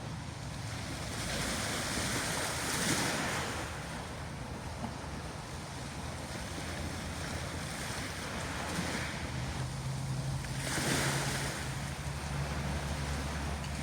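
Sea waves washing onto the shore, swelling and falling back about three times, with wind buffeting the microphone. A low steady hum comes in about halfway through.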